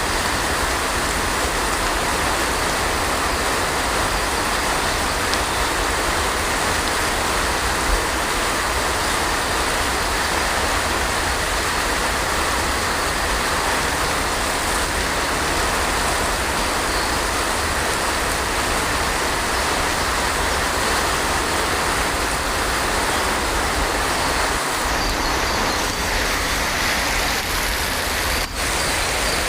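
Heavy rain falling steadily: a dense, even hiss with a steady low rumble underneath, dipping briefly once near the end.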